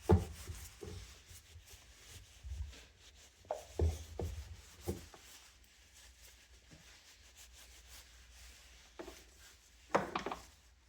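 Hands working on a box fan: scattered light knocks and clacks of parts being handled, with faint rubbing in between.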